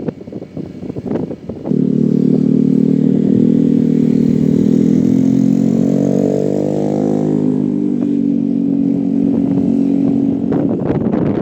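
Motorcycle engine running, starting abruptly a couple of seconds in, rising in pitch briefly in the middle, then settling back before it drops away near the end.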